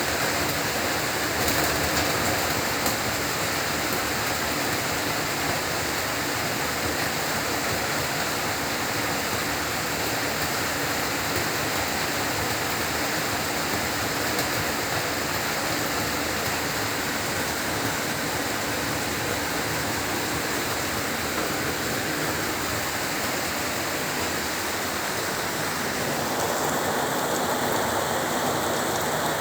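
Heavy rain falling steadily, a dense even hiss of drops with a slight change in its texture near the end.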